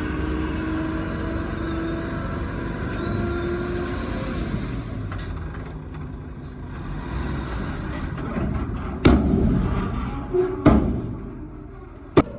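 Truck engine running steadily, then three loud knocks in the second half.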